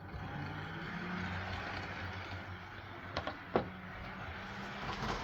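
HO scale DC model locomotive running along the track: a steady motor hum with wheel noise, broken by two sharp clicks a bit past three seconds in.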